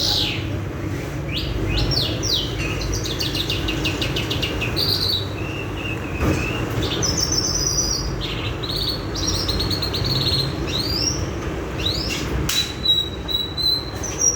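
Songbirds singing: a varied run of short chirps, rapid trills and quick whistled sweeps, over a steady low rumble.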